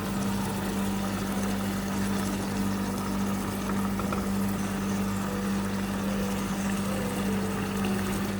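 A steady low mechanical hum with a faint even hiss, unchanging throughout.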